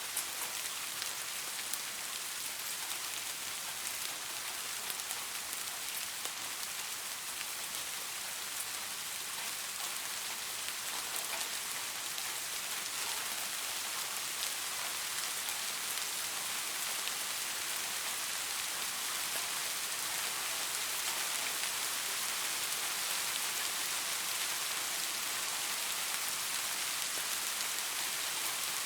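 Steady rain falling on leaves: a dense, even hiss with individual drops ticking through it, growing slightly louder about halfway through.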